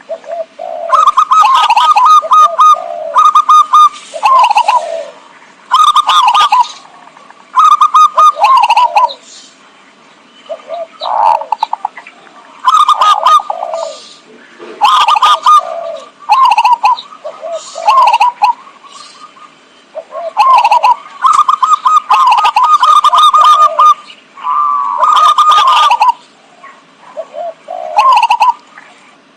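Zebra dove cooing: loud phrases of quick, repeated cooing notes that step down in pitch, one phrase every couple of seconds. This is the perkutut song played as a lure call to draw in wild doves.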